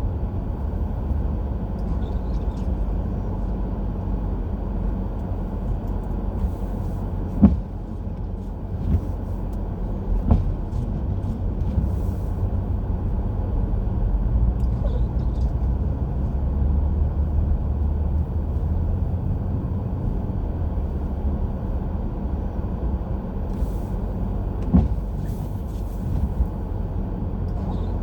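Car driving on a snowy road: a steady low rumble of engine and tyre noise, with a few short knocks, the sharpest about a third of the way in and another near the end.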